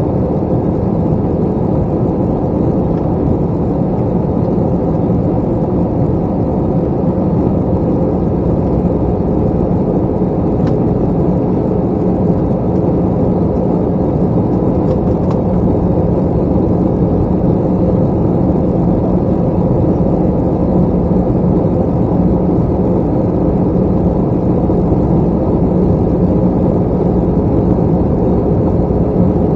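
Steady in-flight cabin noise of an Airbus A321: an unbroken roar of the engines and the airflow over the fuselage, heard from a window seat. The noise is deep and constant, with a faint steady hum running through it.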